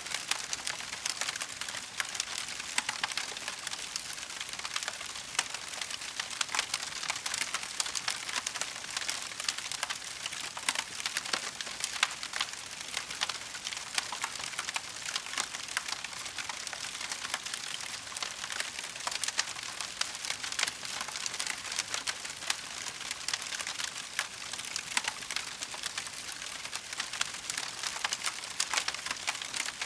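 Wood fire crackling steadily: a dense, irregular stream of small sharp snaps and pops over a soft hiss.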